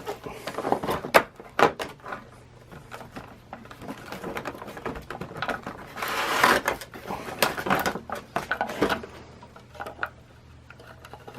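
Packaging of a vinyl toy figure being handled and opened: irregular clicks, taps and plastic and cardboard rustling, with a longer rustle about six seconds in.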